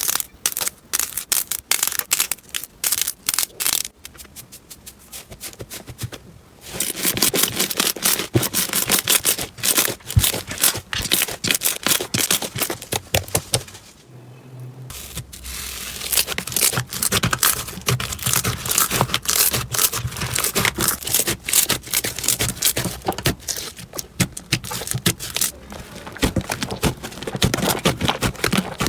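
Slime being squeezed, poked and stretched by hand, giving rapid sticky clicks and crackles, sparse at first and then dense, with a short lull about halfway through.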